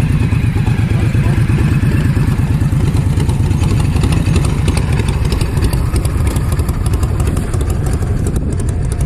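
A motorcycle engine running steadily close by, a fast even low rumble.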